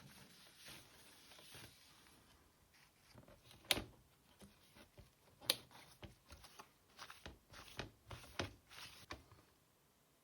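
Plastic console case parts being handled and cleaned: soft rubbing at first, then two sharp clicks and a run of short taps and scrapes.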